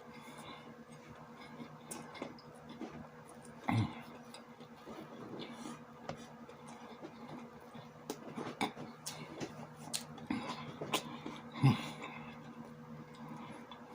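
A person eating sausages with sauerkraut: chewing and mouth clicks, with two brief louder sounds about four seconds in and near twelve seconds, over a steady low hum.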